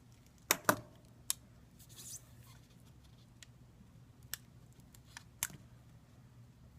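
Small hand tools clicking and tapping against the opened iPad's internals: a quick double click, then single sharp clicks spaced over several seconds, with a brief scrape about two seconds in.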